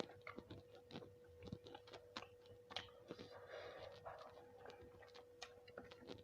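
Faint, close-miked eating sounds: a person chewing food with irregular small mouth clicks and smacks, over a faint steady hum.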